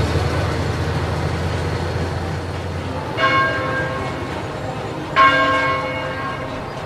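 Church bell tolling: single strokes about two seconds apart, each ringing out and fading, two of them about three and five seconds in. A low steady rumble underneath dies away by the first stroke.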